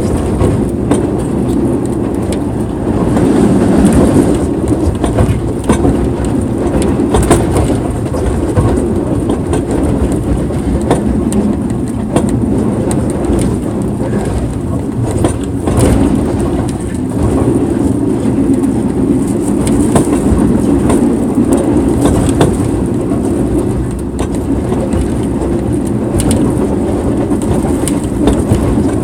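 Sleeper train running on rails: a loud, steady rumble with frequent irregular clacks and knocks from the wheels and carriage.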